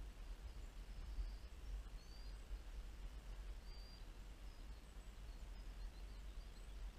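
Small birds chirping faintly from the shore, short high calls scattered throughout, over a steady low rumble.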